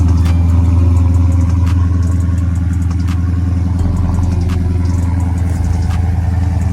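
6.4-litre Hemi V8 of a 2023 Dodge widebody Scat Pack idling steadily on its stock exhaust, with the resonator not yet deleted, shortly after a cold start. The deep idle eases a little quieter in the second half.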